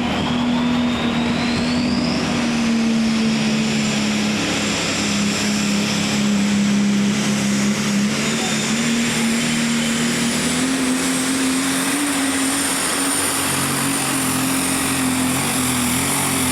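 Turbocharged diesel engine of a pulling vehicle held at high revs under load, with a steady engine note. A high turbo whistle rises in pitch over the first few seconds and then holds.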